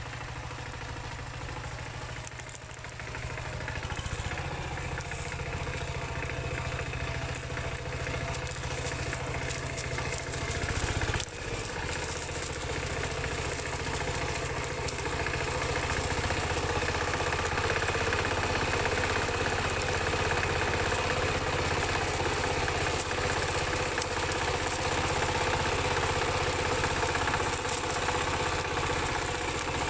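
Single-cylinder Dongfeng diesel engine of a two-wheel hand tractor running steadily while working the field. It picks up and gets louder about three seconds in, with a brief dip about eleven seconds in.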